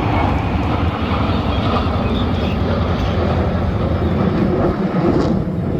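Jet noise from the Black Eagles' KAI T-50B jets in flight: a loud, steady rushing rumble, heaviest in the low end.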